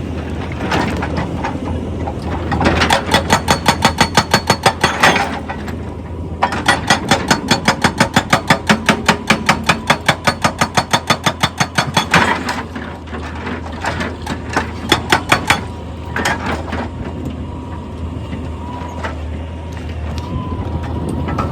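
Excavator-mounted hydraulic rock breaker hammering at about seven blows a second, in two bursts of several seconds each, over the steady hum of the diesel engine; a few loose knocks follow.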